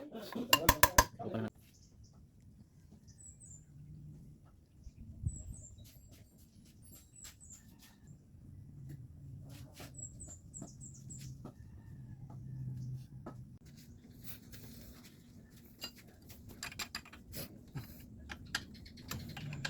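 A rapid mechanical rattle of evenly spaced clicks for the first second and a half, then light scattered clicks and clinks of metal hand tools, with small birds chirping faintly now and then.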